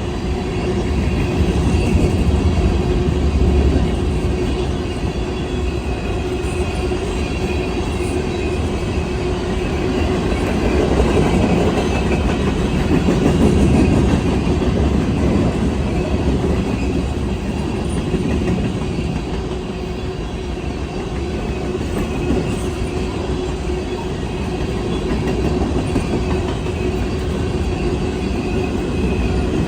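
Train rolling past close by: a steady rumble of wheels on the rails with some clickety-clack, lasting the whole time.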